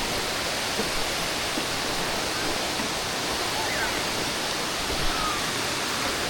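Waterfall rushing steadily: a dense, even hiss of falling water that does not change.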